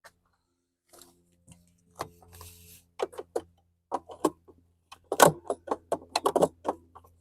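Small hard clicks and rattles of light bulb sockets and a lamp housing being handled and fitted. The clicks are sparse at first and grow quicker and busier in the second half.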